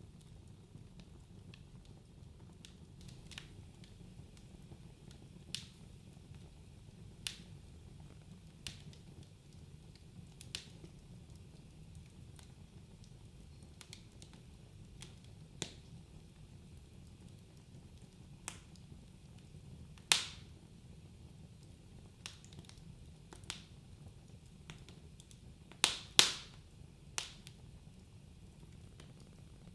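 Wood fire crackling in a fireplace: sparse sharp pops and snaps of burning logs over a low, steady rumble of the flames. A louder pop comes about two-thirds of the way through, and two loud pops follow in quick succession a few seconds later.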